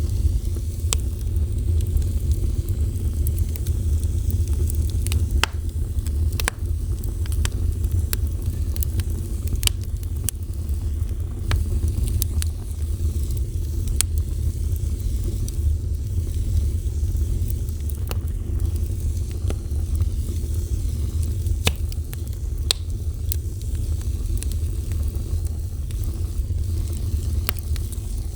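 Wood fire burning, a steady low roar of flames with irregular sharp crackles and pops throughout.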